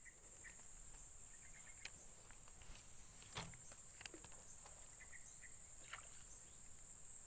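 Faint, steady high-pitched chirring of insects, with a few soft clicks here and there.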